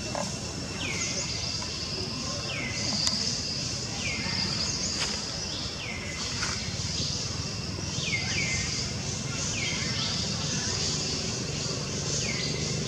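Forest ambience: a bird's short high call sweeping downward, repeated every second or two, over a steady high insect buzz.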